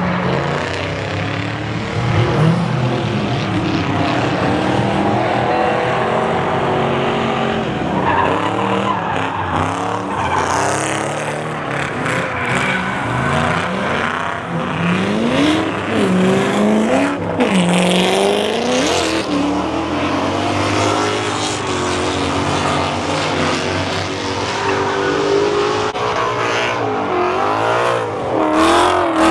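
Car engines revving up and down over and over, with tyre squeal and skidding, as cars are driven hard at a car meet.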